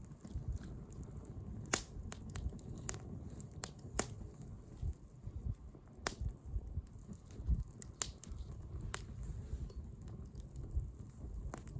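Bonfire crackling: burning wood gives irregular sharp pops, roughly one a second, over a low rumble of the flames.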